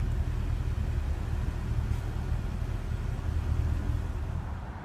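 Steady low outdoor background rumble, with no distinct events; it drops away abruptly near the end.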